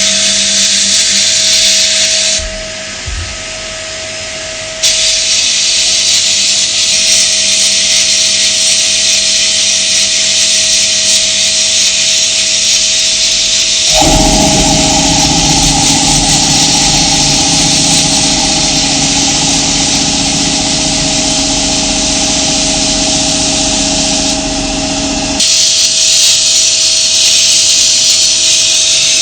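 Power tools running steadily, with a hissing, high-pitched whir; about halfway through a deeper machine with a steady hum takes over for roughly ten seconds before the first sound returns.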